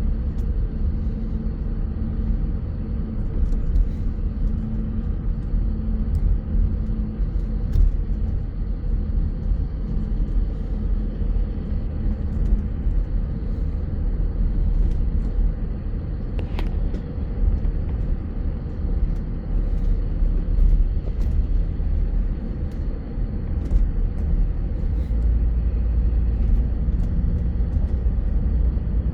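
Bus driving along the road: a steady low engine and road rumble, with occasional light clicks and rattles.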